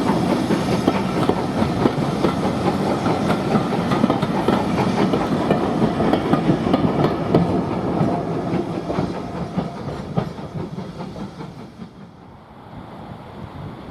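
Steam-hauled train passing, its carriage wheels clattering over the rail joints, then fading away over the last few seconds.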